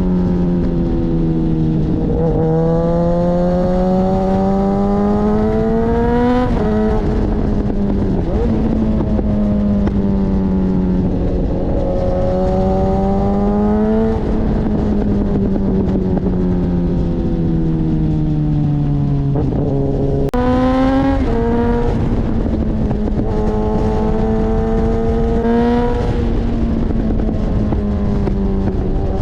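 Suzuki GSX-S1000's inline-four engine through an Akrapovic exhaust, under way. Its pitch climbs slowly through the revs, then drops sharply at a gear change about six seconds in. It rises and falls again, easing off for a few seconds before another sharp change about twenty seconds in.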